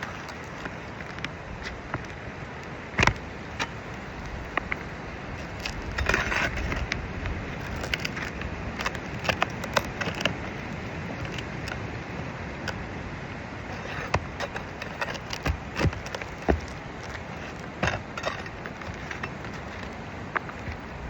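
A metal pry bar clicking and scraping on asphalt roof shingles and their nails as a damaged shingle is worked loose. The clicks come irregularly, with a cluster about six seconds in and more through the middle, over a steady background rush.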